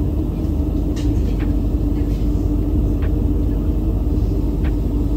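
Steady low rumble and hum inside a passenger train as it pulls slowly away from a station platform, with a few faint ticks.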